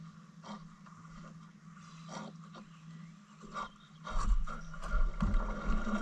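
Canoe on the water: faint scattered knocks and splashes, then about four seconds in a louder low rumble sets in with heavier knocks.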